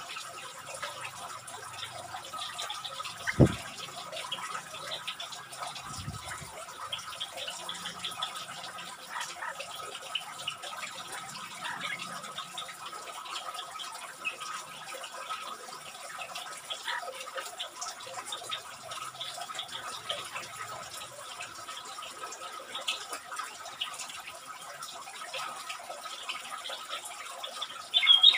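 Bulbuls chirping faintly and sporadically over a steady background hiss with a faint steady tone, and a single thump a few seconds in. Right at the end, loud rapid bird calls break out.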